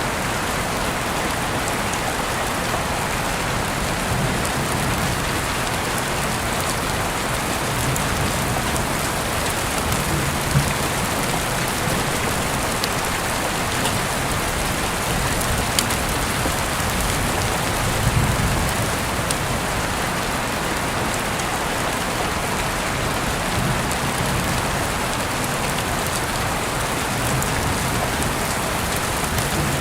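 Heavy rain falling steadily, with a few louder drop clicks scattered through it.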